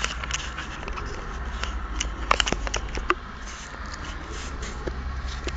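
Car engine idling, heard from inside the cabin as a steady low rumble, with scattered light clicks and rustles close to the microphone.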